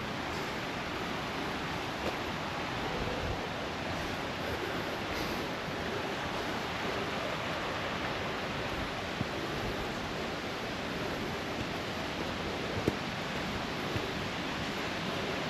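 Creek water rushing over rocks, a steady hiss, with a few light ticks, one sharper near the end.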